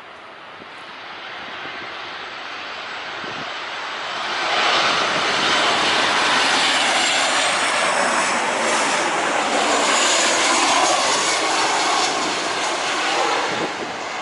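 Jet airliner passing low overhead on landing approach. Its engine noise swells about four seconds in, stays loud with a thin high whine on top, and begins to fade near the end.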